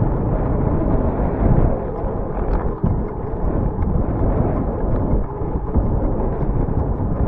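Wind buffeting the camera microphone on a moving bicycle: a loud, unbroken low rumble that swells and dips, with the hiss of the ride under it and a few faint clicks.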